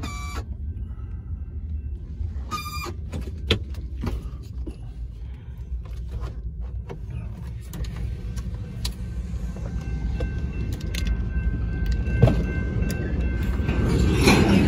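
Low rumble of a freight train of covered hopper cars passing, heard from inside a vehicle's cabin, growing louder toward the end. Clicks and knocks from the phone being handled, and two short high ringing tones in the first three seconds.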